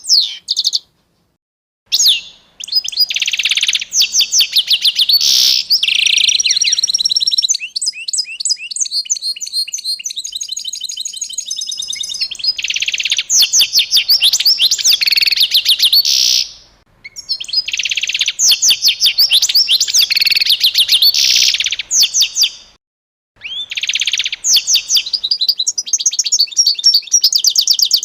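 Songbird singing long phrases of rapid, high chirps and trills, in several bursts of a few seconds with short silent breaks between; the song stops abruptly at the end.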